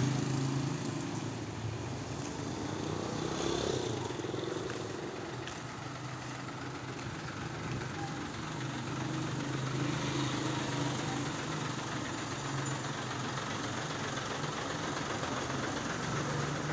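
Truck engine running steadily, a low even hum over outdoor background noise.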